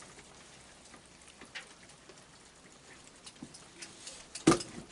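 Light rain falling, a faint steady patter with scattered drips, and one sharp knock about four and a half seconds in.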